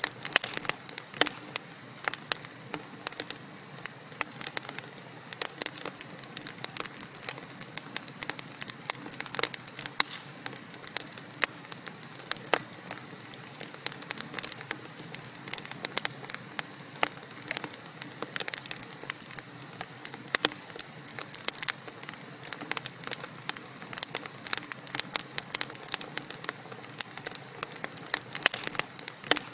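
Wood fire burning in a fireplace: logs crackling and popping in dense, irregular snaps over a steady soft hiss.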